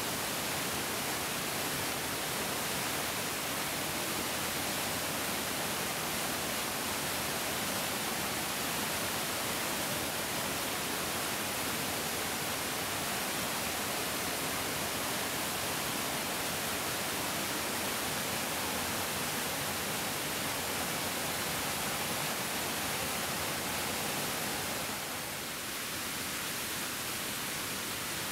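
Bigger mountain stream flowing: a steady, even rush of water, dipping slightly in level near the end.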